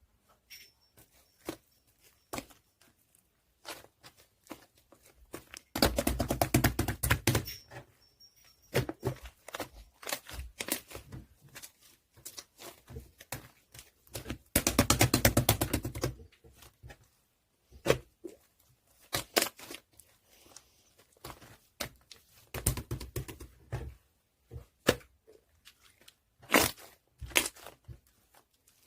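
Scattered clicks and knocks of things being handled, with two louder stretches of rapid rattling, about six seconds in and again about fifteen seconds in.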